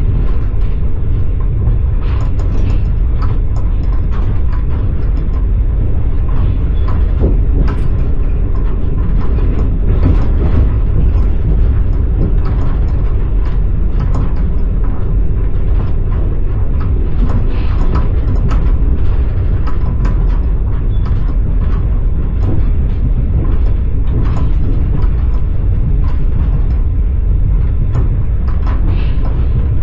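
Passenger train running along the track, heard from inside the carriage: a steady low rumble with the wheels knocking on the rails in short, irregular clicks.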